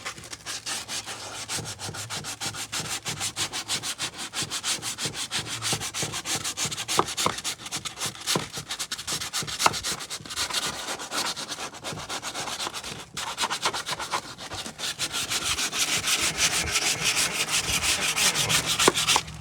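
Hand sanding of Bondo filler on wooden brick mold with purple sandpaper: quick, even back-and-forth rasping strokes, about five a second.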